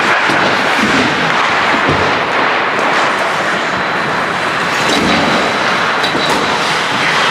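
Ice hockey game sound: a steady hiss of skates on the ice and rink noise, with a few light clicks of sticks and puck.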